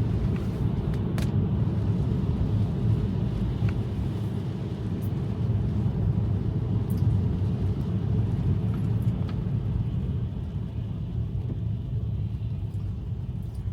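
Steady low rumble of tyre and road noise inside a Tesla's cabin while driving on wet roads, with a few faint ticks.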